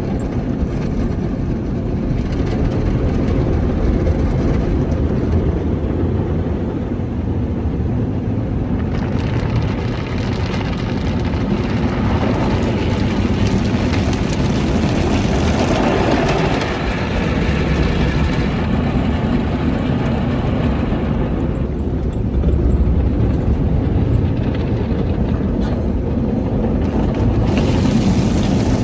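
Automatic car wash running: a steady low rumble throughout, with a loud hiss of spray that builds about a third of the way in, peaks near the middle and fades, then starts again near the end.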